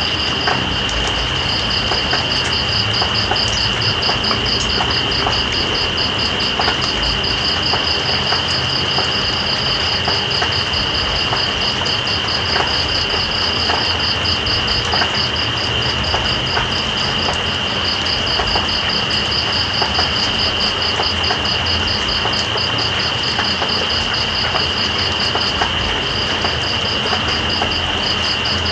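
Night rain falling steadily, with scattered drops ticking. Over it runs a chorus of insects: one holds a continuous high trill, and another pulses rapidly just above it.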